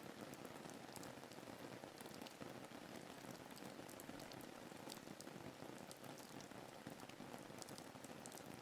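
Soft, steady rain ambience: an even patter with scattered small drop ticks.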